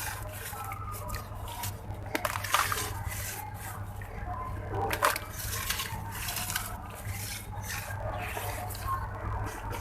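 Grainy red sand-cement chunks soaked in water and crumbling: a wet, gritty crackle with drips, broken by a few sharper cracks about two and five seconds in.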